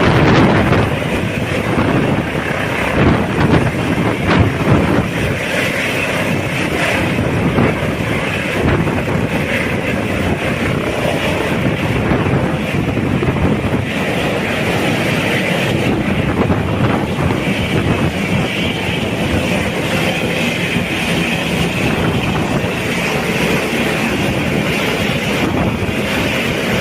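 Airbus H145 twin-turbine helicopter running at close range during takeoff: a loud, steady rotor and turbine noise with rotor downwash buffeting the microphone, gustier in the first few seconds.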